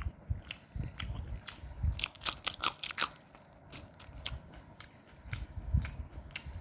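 Close-up chewing and biting of food, with soft repeated jaw thuds and crisp crunches, including a quick run of crunches about two to three seconds in.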